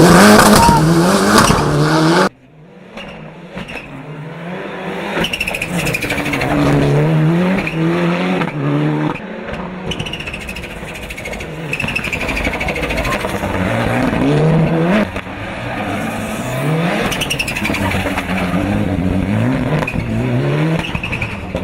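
Hill-climb Mitsubishi Lancer Evolution VI with its turbocharged four-cylinder engine, accelerating hard. Its pitch climbs again and again, with a short break at each upshift. About two seconds in, the sound drops suddenly to a quieter, more distant run of shifts.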